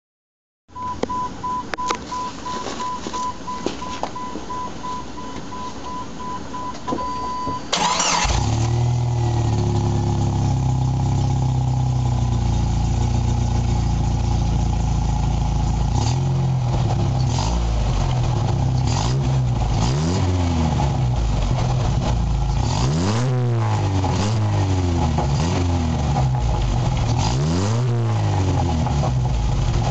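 A rapidly beeping warning chime sounds for several seconds. Then the Jeep Wrangler TJ's 2.5L four-cylinder engine, running through a Dynomax Super Turbo muffler with no catalytic converter, starts about eight seconds in. It idles, and later is revved several times, each blip rising and falling in pitch.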